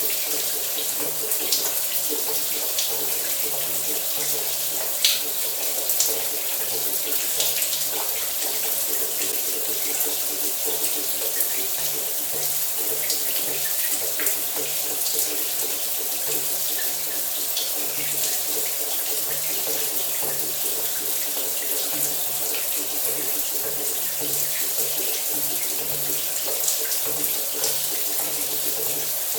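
Shower running: a steady spray of water splattering, with many small splash ticks.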